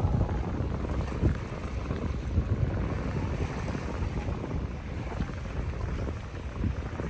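Gusty wind buffeting the microphone over a low rumble of a boat under way, with a few low thumps.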